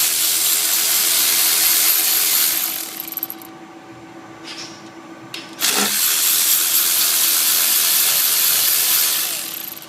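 Two long blasts of compressed air hissing, about three and four seconds each, with a short break between.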